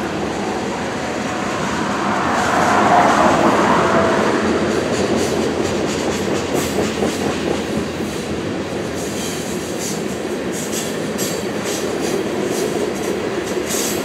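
Freight train tank cars rolling by on steel rails: a steady rumble of wheels, swelling a few seconds in with a faint brief squeal, then a run of sharp clicks as wheels cross rail joints in the second half.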